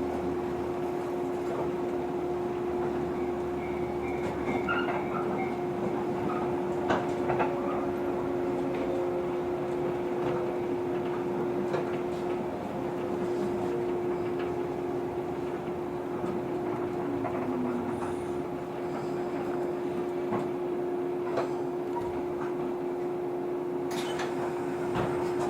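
Interior sound of a JR 115 series electric train car: a steady electrical hum with a fainter higher tone, a slowly falling tone partway through, and scattered clicks and knocks.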